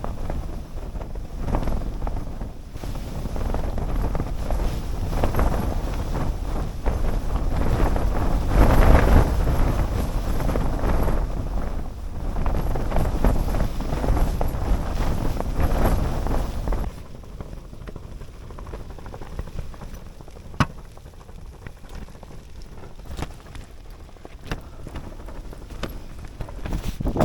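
Snowstorm wind rushing and gusting, with wind noise on the microphone. About two-thirds of the way through it drops abruptly to a quieter rush, broken by a few sharp ticks.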